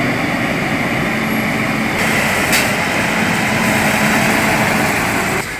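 A small engine running steadily at high speed, with one sharp click about two and a half seconds in; the sound drops off abruptly near the end.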